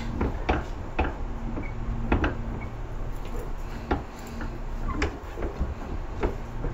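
Tobu 10000 series electric train heard from inside the car while running: a steady low rumble with a faint steady hum, and irregular sharp clacks and knocks from the wheels and car body.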